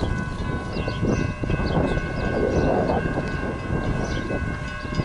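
Train passing close by: a steady low rumble with a chord of several high steady tones held throughout.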